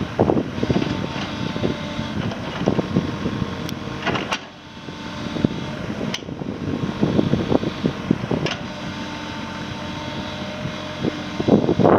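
Kubota RX-306 mini excavator's diesel engine running steadily, with a few sharp clicks or knocks on top. The sound drops briefly about four seconds in, then climbs back.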